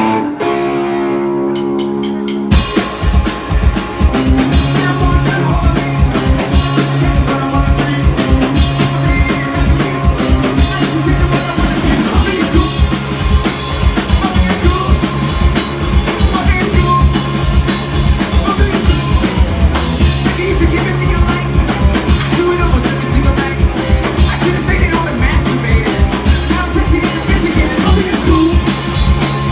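Live rock band starting a song: electric guitar alone for about two seconds, then the drum kit and the rest of the band come in with a fast, steady beat.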